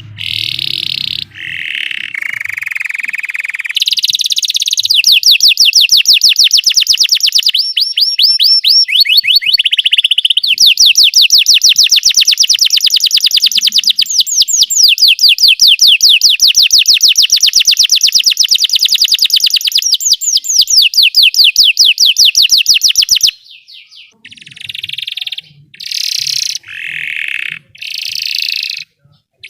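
Belgian canary singing: long, fast trills of rapidly repeated high notes, the rolls of canary song, running almost without a break, then shorter separate phrases near the end.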